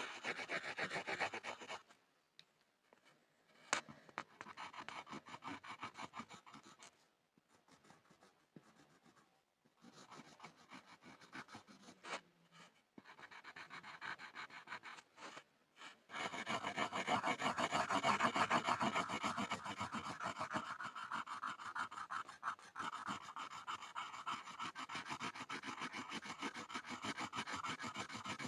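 Pencil scribbling on a board in quick, dense back-and-forth strokes. It stops and starts a few times in the first half, then runs without a break from a little past the middle.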